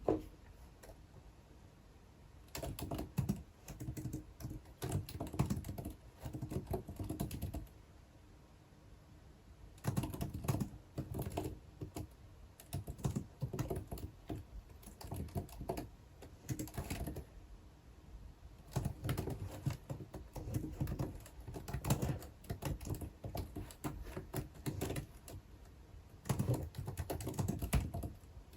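Typing on a computer keyboard: runs of rapid keystrokes lasting several seconds each, with pauses of a second or two between them.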